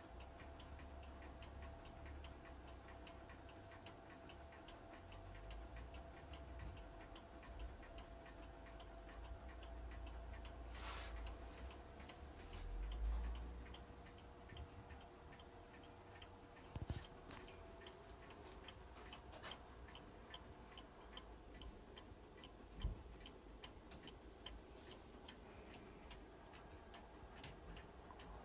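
Antique single-fusee bracket clock ticking steadily and faintly, with a brief low rumble about halfway through and a couple of sharp knocks later on.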